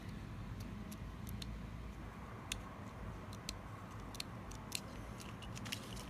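Faint, irregular light clicks and taps from handling a small electric lighter, over a low steady hum.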